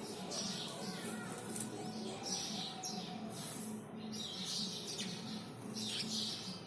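Birds chirping: a run of short, repeated chirps throughout, with a low pulsing sound underneath.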